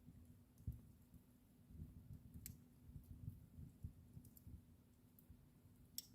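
Wood fire in a fireplace burning quietly: a low, uneven rumble with sparse sharp crackles, the two loudest about two and a half seconds in and near the end.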